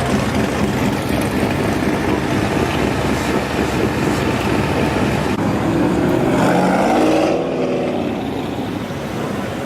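Cars and trucks driving past with their engines running, a steady dense traffic noise, and one engine note rising and falling about six seconds in.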